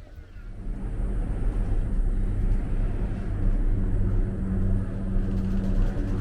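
A vehicle engine running close by: it swells up over the first second, then holds a steady low hum.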